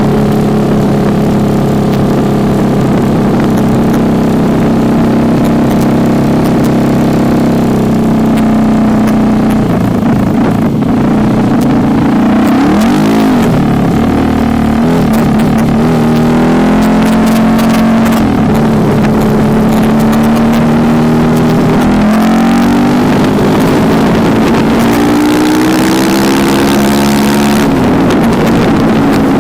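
Honda CRF150L's single-cylinder four-stroke engine, bored up to 250 cc, running through a Norifumi Rocket 4 aftermarket exhaust: held at a steady speed for several seconds, then revved up and down repeatedly, with quick blips about halfway and longer climbs in pitch near the end.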